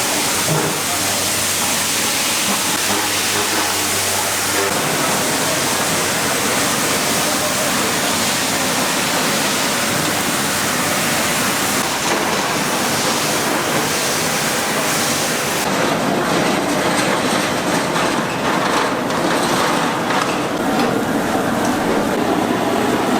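Steady, loud hiss and bubbling of food cooking over wood fires, typical of chicken stew in giant cast-iron pot-lid pans; the high hiss eases about 16 seconds in.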